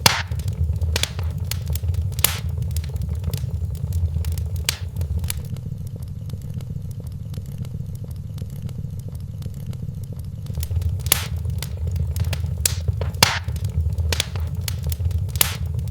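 Wood fire crackling in a fireplace: irregular sharp pops and snaps over a steady low rumble. The pops thin out for a few seconds in the middle.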